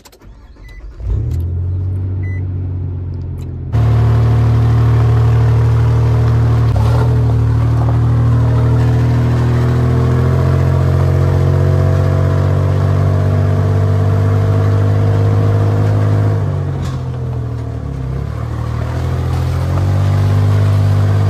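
A car engine running while the car drives off. Its pitch climbs slowly as it accelerates, drops briefly, then climbs again. The sound comes in about a second in and jumps louder a few seconds later.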